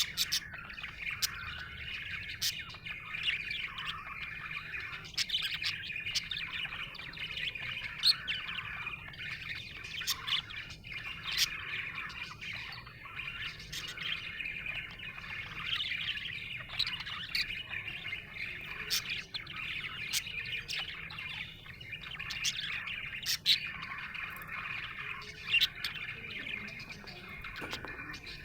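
Budgerigars chattering and warbling without pause, with frequent short, sharp chirps and the odd squawk.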